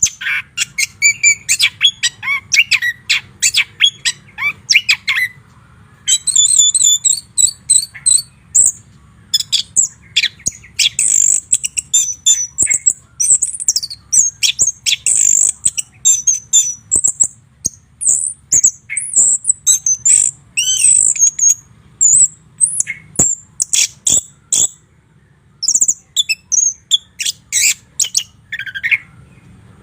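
White-rumped shama singing a long, varied song: quick runs of short notes and high clear whistles, in phrases broken by brief pauses.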